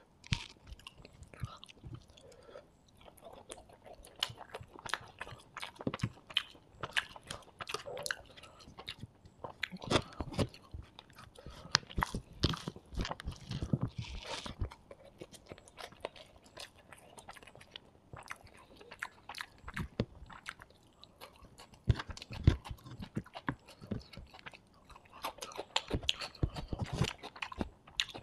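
Close-miked eating sounds: a man chewing and biting mouthfuls of beef fried rice taken by hand, with many sharp wet mouth clicks at an irregular pace.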